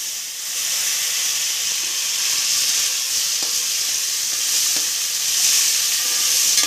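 Whole tomatoes, garlic cloves and green chilies sizzling steadily in hot mustard oil with whole spices, just after being dropped in, with a few soft knocks from stirring.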